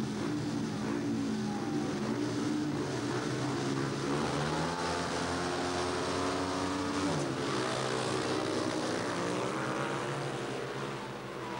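Speedway bikes' 500cc single-cylinder engines revving together at the starting gate, climbing in pitch, then at full throttle as the race gets under way about seven seconds in.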